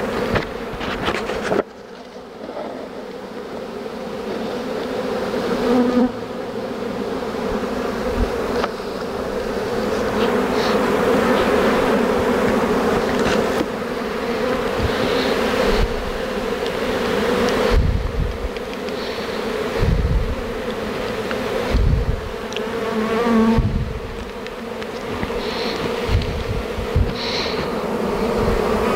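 A honey bee swarm buzzing close by, a dense steady hum of many bees that swells and eases slightly, with bees massing at a hive box. A few brief low thuds come in the second half.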